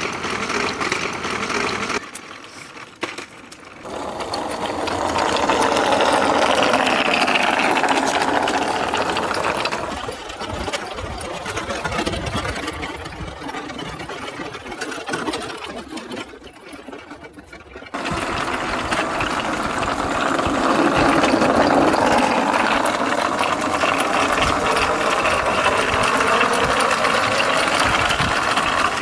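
A small machine running with a fast rattle, its pitch rising and falling. It drops away briefly about two seconds in and again just past the middle.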